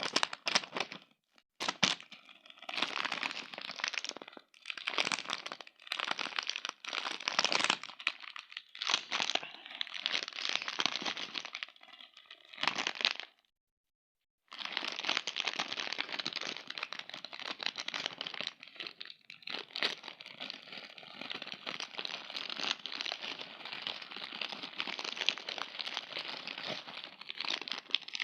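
Plastic sweet wrappers crinkling and tearing as Gogo Pops packets are handled and opened, in short bursts at first, then continuously after a silent break of about a second near the middle.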